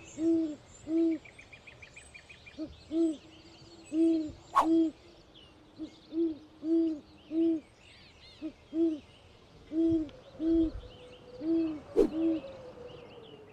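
A bird giving a long series of short, low hooting notes, about three every two seconds. Faint high chirps of smaller birds run behind it, and two sharp clicks sound, one about four and a half seconds in and one near the end.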